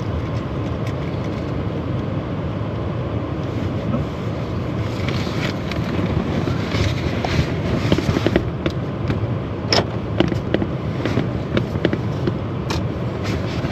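Heavy rain falling on a car's roof and windows, heard from inside the car: irregular taps over a steady rush.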